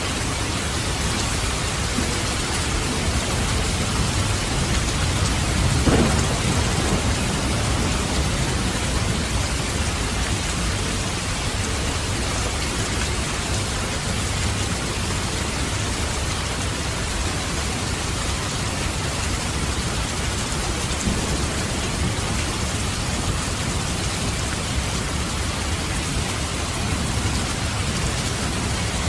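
Steady heavy rain with rolling thunder rumbling low underneath, and a sharper thunderclap about six seconds in.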